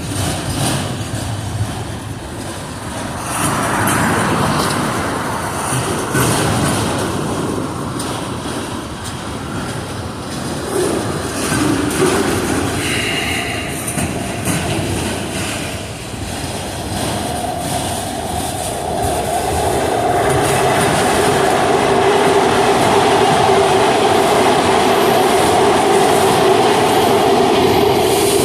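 Freight cars of a mixed manifest train rolling past, wheels clicking over rail joints. About two-thirds of the way through, a steady metallic squeal joins in and holds as the train brakes toward a stop.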